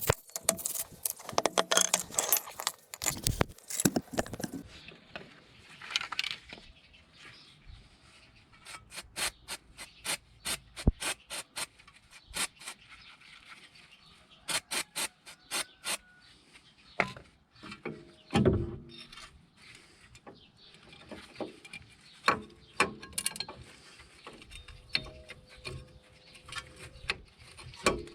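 Workshop handling sounds of brake parts and tools being worked: a stretch of scraping in the first few seconds, then scattered sharp clicks and knocks, some in quick runs.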